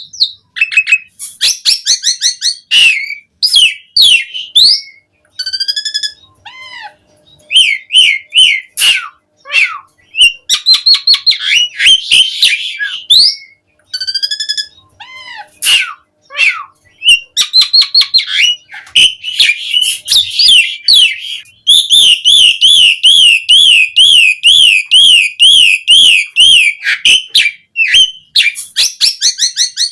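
Asian pied starling (jalak suren) singing a varied song of loud whistles, slurred and sweeping notes and harsh chattering calls in quick phrases with short pauses. About two thirds of the way through it breaks into a long, fast, wavering trill lasting several seconds before going back to short phrases.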